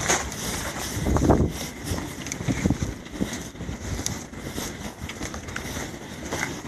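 Blizzard wind buffeting the microphone in gusts, strongest about a second in and then easing, with scattered small clicks.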